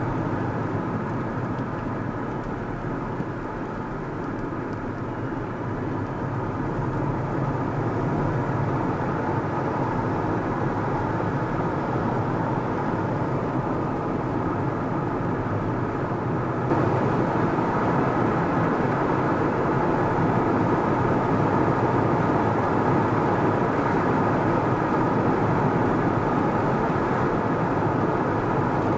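Car driving along the road: steady engine hum and tyre noise, which gets louder with a sudden step about two-thirds of the way in.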